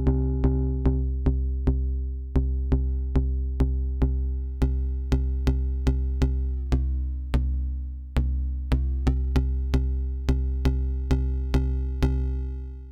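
Elektron Syntakt's digital SY Toy synth engine, dry with no effects, playing a sequenced pattern: pitched notes retriggered about two to three times a second over a sustained low tone. The pitch slides down about six and a half seconds in and back up about two seconds later.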